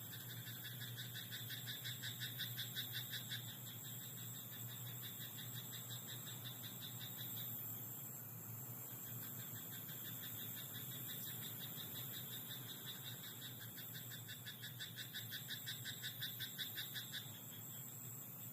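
Frog croaking in a rice paddy: rapid trains of pulses in two long bouts, the first in the opening three seconds, the second from about nine to seventeen seconds in. A steady high insect trill runs underneath.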